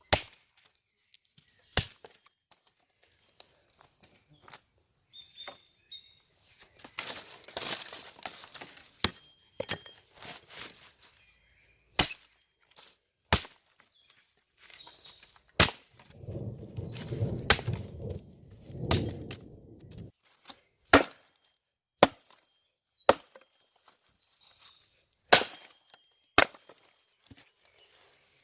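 Wood being chopped: single sharp strikes at an irregular pace, a second or two apart. A few seconds of rustling or scraping noise come about a quarter of the way in, and a low rumbling noise past the middle.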